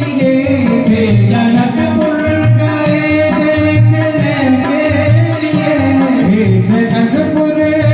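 Hindi devotional bhajan music: a melody over a steady, evenly repeating hand-drum beat, with singing.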